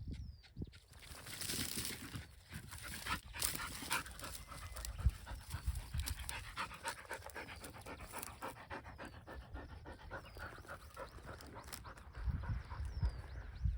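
A dog panting quickly and steadily, close by. A bird gives a few short falling chirps, once right at the start and again near the end.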